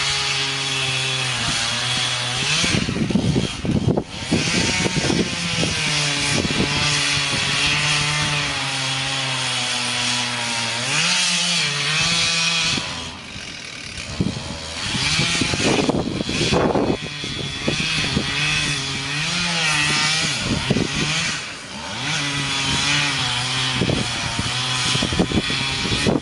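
A chainsaw running and cutting wood, its engine note shifting up and down as it works, with two brief dips in level along the way.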